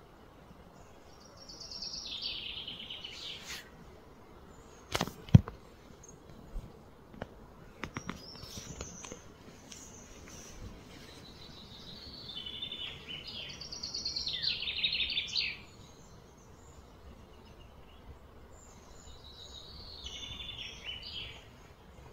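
A songbird sings three phrases of quick, high notes that fall in pitch, over a steady outdoor hiss. A sharp knock about five seconds in is the loudest sound, followed by a few fainter clicks.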